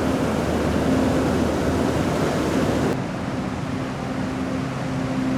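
Sea surf washing in a steady rush. About three seconds in, it cuts off abruptly and gives way to a quieter steady low hum.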